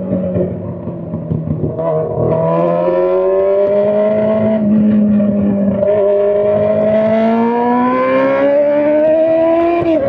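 Straight-piped Honda CBR600 inline-four engine under acceleration. It is quieter for the first couple of seconds, then its pitch climbs steadily for several seconds and drops sharply right at the end, as at an upshift.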